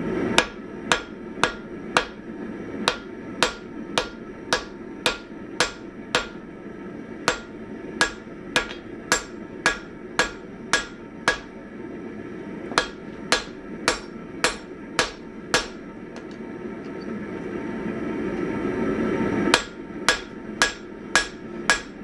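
Hammer blows on hot 1045 steel on an anvil while forging out an ax head, sharp ringing strikes about two a second. They stop for a few seconds about 16 seconds in, while a steady rushing noise grows louder, then resume.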